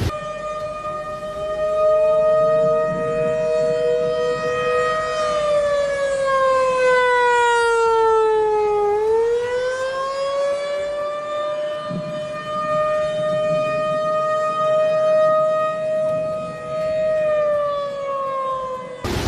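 Outdoor warning siren sounding two steady tones a little apart in pitch. The pitch sags and recovers about halfway through, then falls away near the end.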